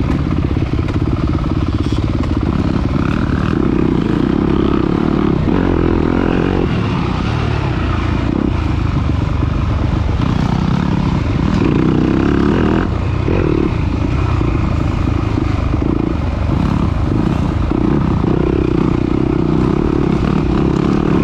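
Off-road dirt bike engine running hard and loud, its revs rising and falling.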